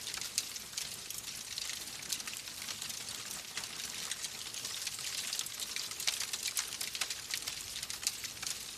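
Wood fire crackling: a steady hiss with frequent small, sharp pops and snaps at irregular intervals.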